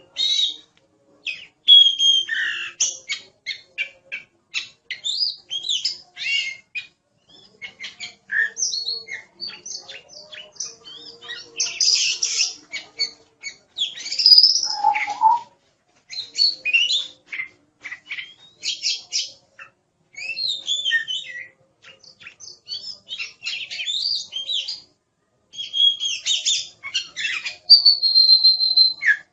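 Oriental magpie-robin (kacer) singing vigorously: phrases of rapid, varied whistles and chattering notes broken by short pauses, with a long steady whistle near the end.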